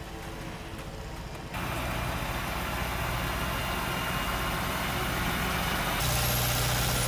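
Vehicle engine running steadily with a low hum under a haze of outdoor noise. The sound jumps abruptly louder about a second and a half in, and again near the end.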